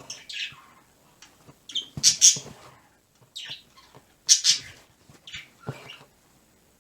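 Pet birds squawking and chirping in a string of short, harsh calls, the loudest about two and four and a half seconds in.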